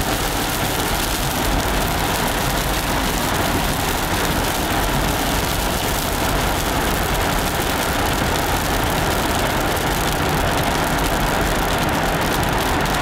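Car driving through a hail storm, heard from inside the cabin: a steady, dense hiss of road noise and hail hitting the car.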